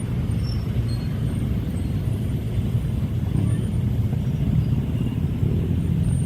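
Passing train, a steady low rumble of the wheels on the rails.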